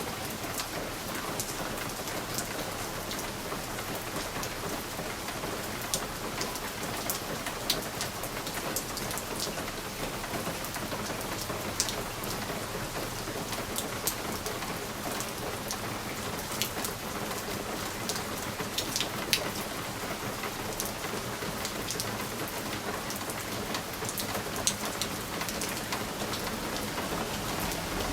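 Steady rain on a window pane: an even hiss with many single drops ticking sharply against the glass at irregular moments.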